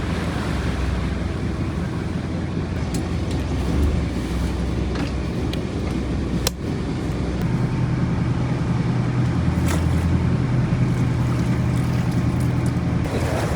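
An engine running steadily with a low drone, and a sharp click about six and a half seconds in, after which the drone's pitch shifts slightly.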